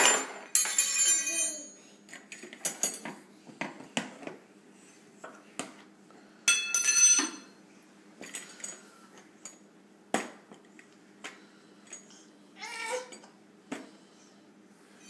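Metal forks and spoons clinking and rattling against each other in a dishwasher's cutlery basket as a baby handles them: scattered sharp clinks, with two louder ringing rattles near the start and about halfway. About 13 s in comes a short, high baby squeal.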